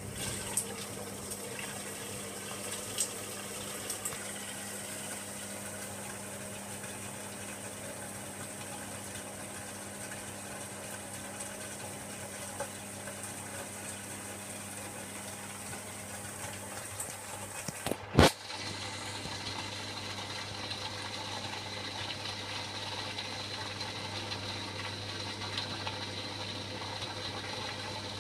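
Hoover Logic washing machine with water rushing into or through it, over a steady low hum. A sharp click comes about eighteen seconds in, after which the hum grows deeper and a thin high whine joins it.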